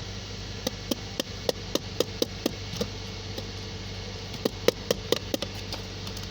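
Sharp taps on the Subaru's engine computer (ECU) in two runs of several knocks, about four a second, a tap test to shake out an intermittent fault in the computer. A steady engine hum runs underneath.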